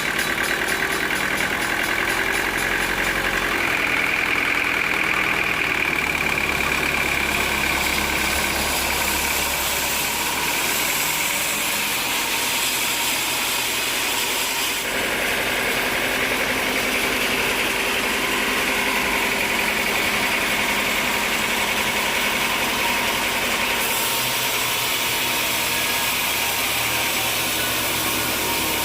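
Sawmill machinery running steadily: an engine-driven mill with a high whine whose pitch shifts slightly a couple of times.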